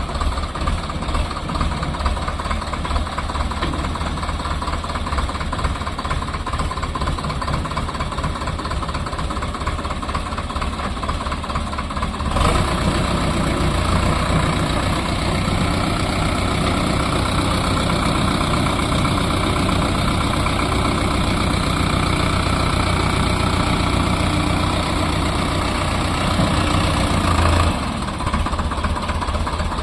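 Sonalika DI 750 tractor's diesel engine running steadily. It turns abruptly louder about twelve seconds in and drops back near the end.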